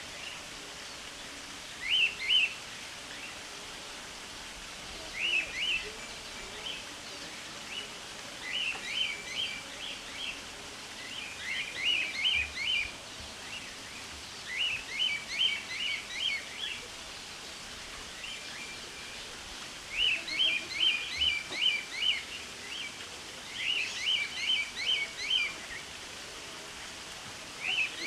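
A bird chirping: clusters of quick, high chirps, two to seven notes at a time, repeating every couple of seconds over a steady background hiss. The high pitch does not fit the low cooing of the emerald dove in view, so another bird is calling.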